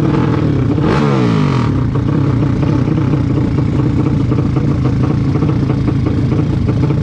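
Racing motorcycle engines running loudly and steadily. About a second in, one engine's pitch drops sharply, as a bike passes or rolls off the throttle.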